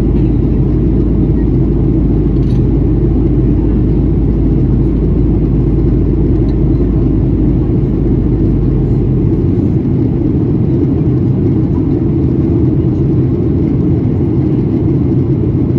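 Steady cabin drone inside a Boeing 737-800 in flight: engine and airflow noise heard from a window seat. The deepest part of the rumble drops away about two-thirds of the way through.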